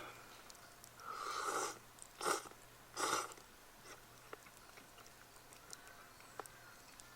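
A person slurping noodles: three short, noisy slurps in the first half, about a second apart, then only faint scattered ticks.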